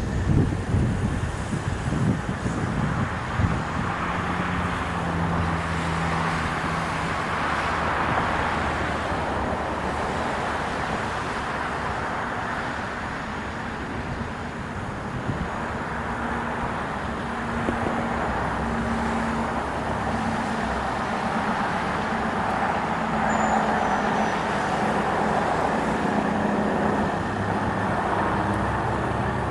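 Steady road traffic noise: the rush of passing vehicles, with a low engine hum that rises and fades as vehicles go by.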